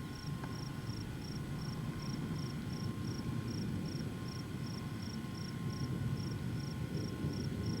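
A cricket chirping steadily, about three chirps a second, over a steady low rumble.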